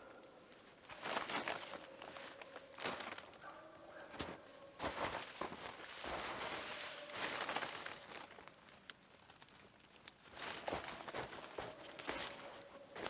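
Irregular crunching and rustling noises, coming in uneven bursts.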